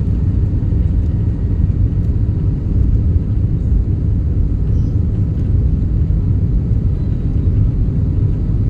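Jet airliner during takeoff, a loud, steady low rumble of engines and airframe with a faint steady whine above it.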